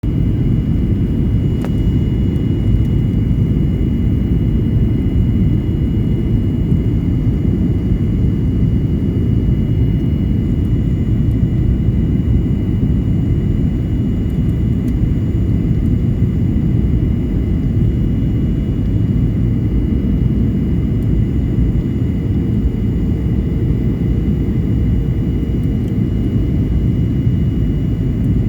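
Steady cabin noise inside a Boeing 737 MAX 8 in flight: a dense low rumble of airflow and engines with two faint, steady high tones over it.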